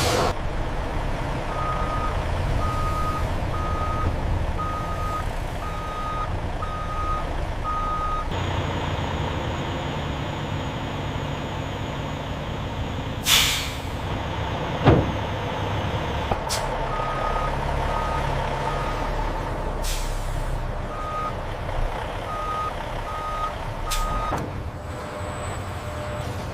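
A vehicle's reversing alarm beeping at a steady pace in several runs over a low engine rumble. About halfway through comes a short, sharp hiss of air, then a single knock.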